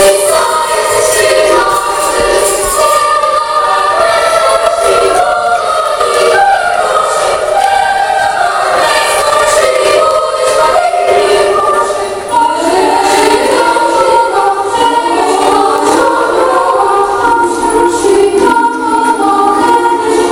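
Choral music: a group of voices singing a melody together, loud and continuous.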